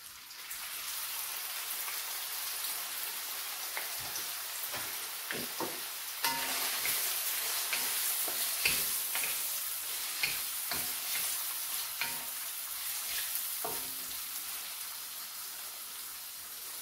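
Diced hot dog sausages sizzling in hot oil in a wok, the hiss starting as they are tipped in. From about four seconds in, a wooden spatula knocks and scrapes against the pan as they are stirred.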